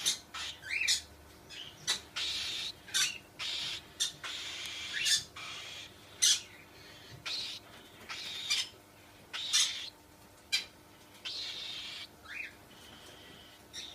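Cockatiel calling: a string of short, harsh chirps and squawks in irregular succession, with a few longer, raspy calls.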